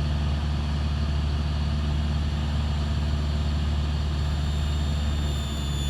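Cessna 172 Skyhawk's piston engine and propeller droning steadily in flight, a constant low hum with no change in power.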